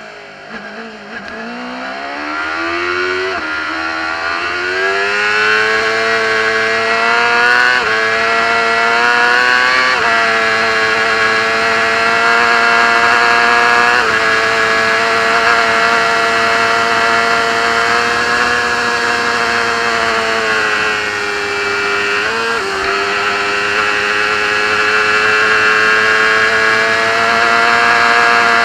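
Racing motorcycle engine heard from on board: the engine note falls as the bike slows at the start, then climbs hard through about five upshifts, each marked by a short drop in pitch. It then holds a steady high-revving note at speed, with one brief dip and recovery about two-thirds of the way through.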